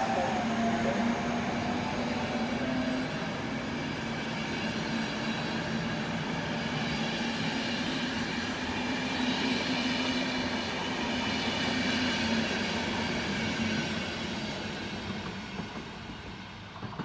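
Electric-hauled passenger train pulling away: the coaches roll past with steady rail and wheel noise, a low hum and higher ringing tones over it. The sound fades over the last few seconds as the train draws off down the line.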